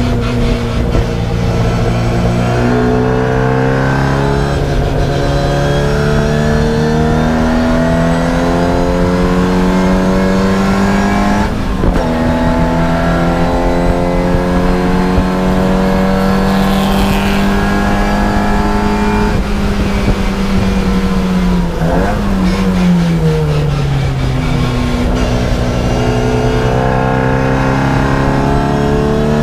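Racing car engine heard from inside the cabin, pulling higher and higher under full throttle with a brief break for a gearshift about twelve seconds in, then holding a steady high note. About twenty seconds in it drops away as the car slows and shifts down, and near the end it climbs again under acceleration.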